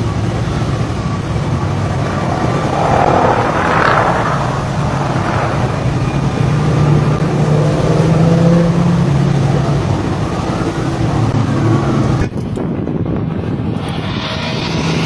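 Propeller aircraft engine droning steadily under a rush of air noise. The sound changes abruptly about twelve seconds in, as at an edit to another clip.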